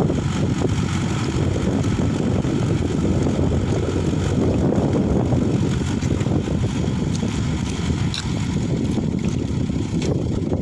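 Old Mahindra tractor's diesel engine running steadily.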